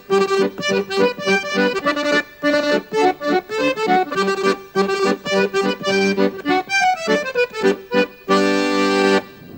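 Lively accordion tune of quick, short notes with a falling run, ending on a held chord.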